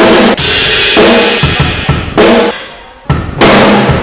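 Drum kit playing loud hits about a second apart, each with a cymbal crash ringing on after it.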